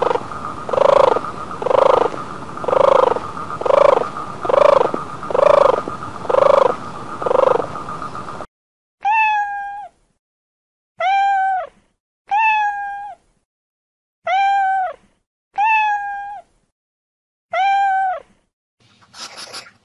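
A run of about nine evenly spaced animal calls over a steady hiss. Then, from about eight and a half seconds in, a cat meows seven times: each meow a drawn-out call that rises and falls in pitch, with silence between.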